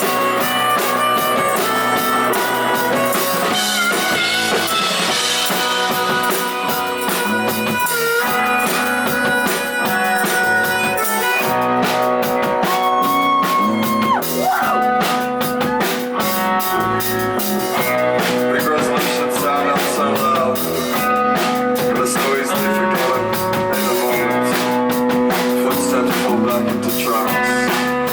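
Indie rock band playing an instrumental passage on electric guitars and drum kit, with no singing. The cymbal and drum beat becomes more prominent about twelve seconds in.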